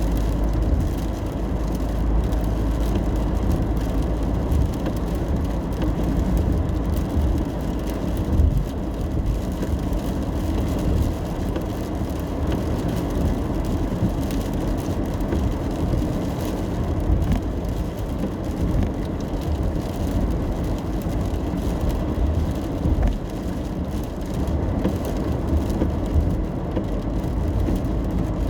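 Road noise inside a car driving in the rain: a steady low rumble of tyres and engine, with rain on the car in the background.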